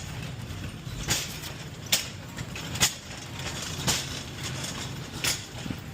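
Wheeled delivery carts being moved, giving sharp knocks and clacks about once a second over a steady low hum.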